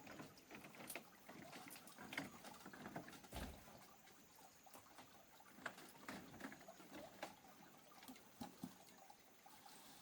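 Faint scattered knocks and clicks with light water sounds, and one dull thump about three and a half seconds in.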